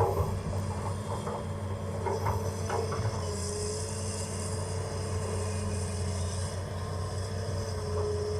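Hitachi ZX200-5G hydraulic excavator's diesel engine running steadily with a constant tone over it while it digs mud out of an old pond, with a few short knocks in the first three seconds.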